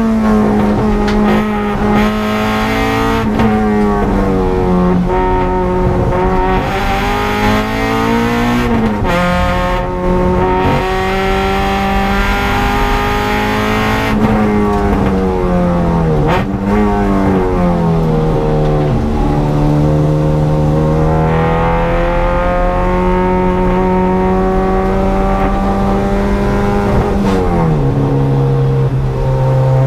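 EG Honda Civic's four-cylinder engine under hard load on a race track, heard from inside the cabin. Its note climbs slowly and drops sharply several times at gear changes and braking.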